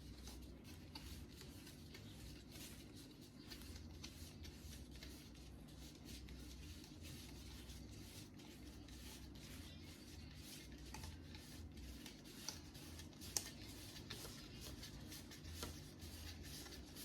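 Faint handling noise of plastic parts being rubbed and shifted by hand, with scattered light clicks and one sharper click about thirteen seconds in, over a steady low room hum.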